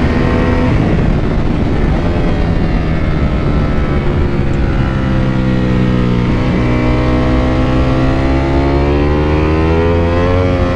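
Ducati Panigale V4's V4 engine heard from on board under a constant rush of wind. The revs fall steadily for several seconds, break briefly about six and a half seconds in, then climb steadily in pitch until just before the end.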